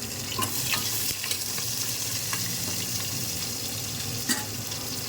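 Onions sizzling as they fry in hot oil and ghee in a pan, with a spoon stirring and clicking against the pan. A sharper knock comes about four seconds in.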